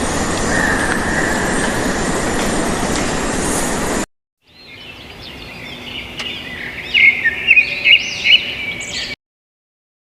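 A dense, steady rushing noise for about four seconds. After a brief silence, a bird sings a quick run of high chirps and trills that grows louder, then stops abruptly.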